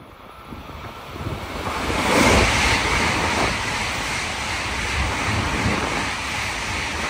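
Shinkansen bullet train passing at high speed: a rushing noise that builds quickly over the first two seconds or so, then stays loud and steady.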